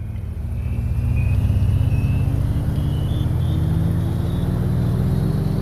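A vehicle accelerating: a low running sound that grows louder and rises steadily in pitch, with a fainter high whine that climbs in small steps.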